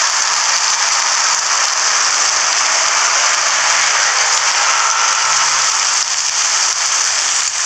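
Eggs and shredded cheese sizzling steadily in oil on a hot flat griddle.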